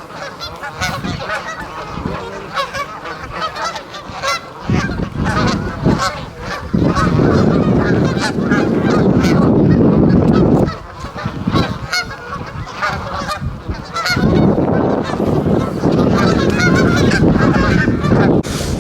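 A flock of geese honking repeatedly, call after call. Two long spells of loud low rumble come in part way through and again later.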